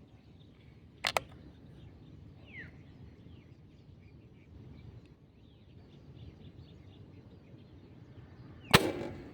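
Two sharp cracks of a PCP air rifle firing, a short one about a second in and a louder one near the end, over a quiet background with faint bird chirps.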